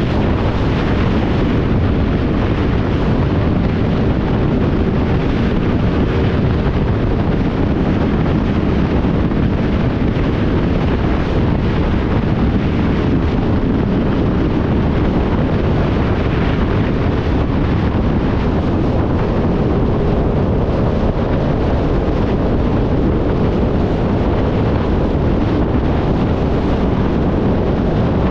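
Wind buffeting the microphone over the steady running of a motorcycle on the move, a loud, unbroken rush with a low engine hum underneath.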